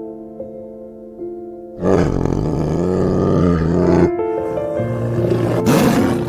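A tiger roaring in two rough bouts: a long one of about two seconds, then after a short break a shorter one that ends in a sharp burst. Soft piano music plays underneath.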